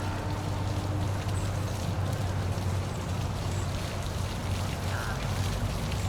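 Waterfall in a city park, water falling in a steady, even rush with a strong low rumble underneath.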